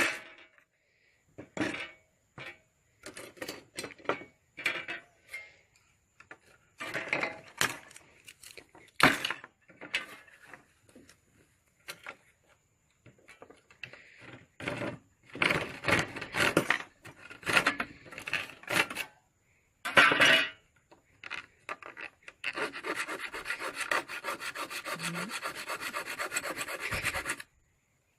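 Hand-tool scraping and rasping strokes on a hard material, coming in short irregular bursts, then a continuous fast rasping buzz for about five seconds near the end.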